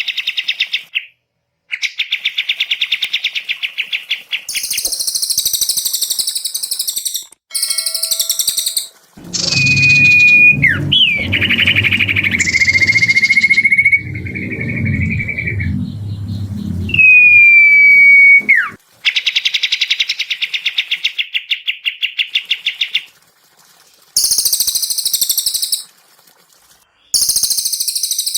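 Recorded songbird song: rapid dry trills, very high chattering phrases and sharp whistled notes that sweep downward, in bursts of a few seconds with short pauses between them. A low rumble runs under the song for several seconds in the middle.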